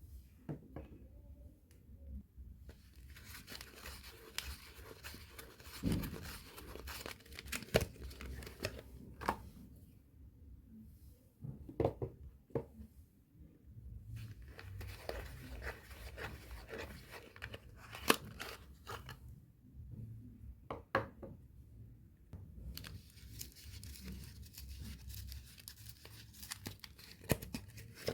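Soap bars being unwrapped by hand: wrapping torn and crinkled in three long stretches, with sharp taps and clicks between them.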